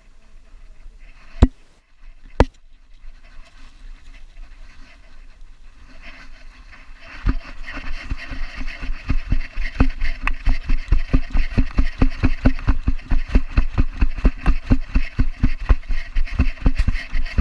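Dog-worn GoPro jolted by a running dog's strides: a fast, even run of thumps, about three or four a second, begins about seven seconds in. Two sharp knocks come earlier, near the start.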